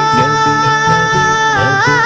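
An Urdu devotional song (naat) being sung. A voice holds one long high note, then breaks into a wavering ornamented run near the end, over a low rhythmic backing.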